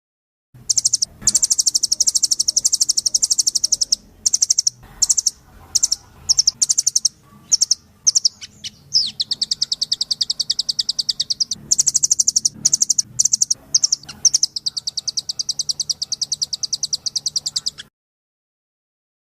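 Recorded songbird song used as bird-training 'masteran' audio: rapid, high-pitched buzzy trills in short bursts and longer runs, stopping and restarting. It cuts off abruptly about a second before the end.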